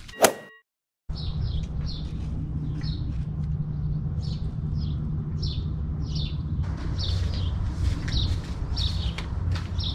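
A small bird chirping over and over, short high chirps about two a second, over a steady low rumble. A sharp knock sounds right at the start.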